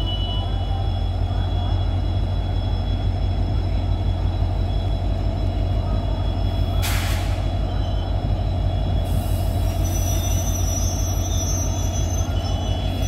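Passenger train coaches rolling slowly past over the rails, with a locomotive's steady low drone underneath. A brief hiss of air about seven seconds in, and faint high wheel squeal in the last few seconds.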